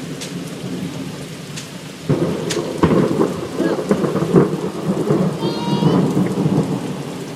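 Thunder following a lightning flash: a sudden loud, crackling rumble that breaks in about two seconds in and dies away after a few seconds. Steady heavy rain runs underneath.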